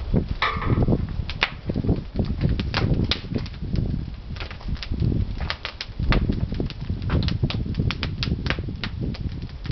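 Pine firewood burning in a traditional wood-fired kiln: dense, irregular crackling and popping over a low rumble.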